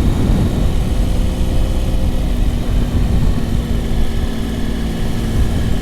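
Motorcycle engine running steadily under way on a mountain climb, at a fairly even pitch, over a dense low rumble of wind and road noise.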